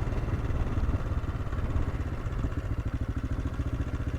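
AJP PR7 motorcycle's single-cylinder engine running at low revs, with a rapid even pulse.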